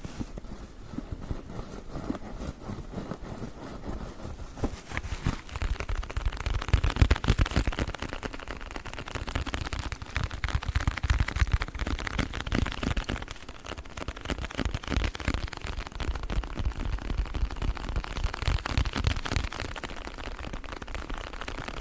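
Sponge pack handled close to the microphone for ASMR: a dense run of rapid crackles with soft low thumps, getting busier and louder about six seconds in.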